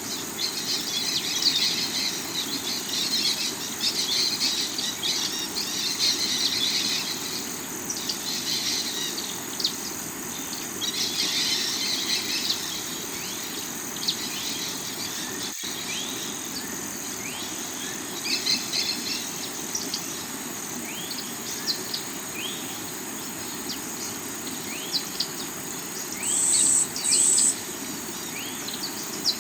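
Steady flow of a rocky river, layered with a forest chorus of birds chirping in many short rising calls and insects. Near the end, two short, loud high-pitched calls stand out.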